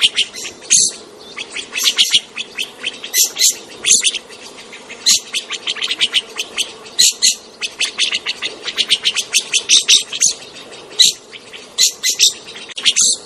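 Birds chirping in quick, repeated high-pitched runs of short notes, with brief gaps between the runs.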